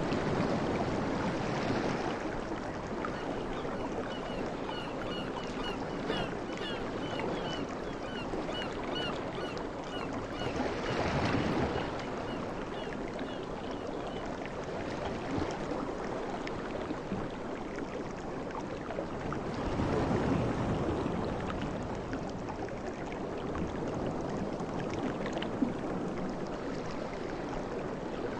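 Sea waves washing onto a shore, a steady rush that swells louder twice, near the middle and about two-thirds of the way in.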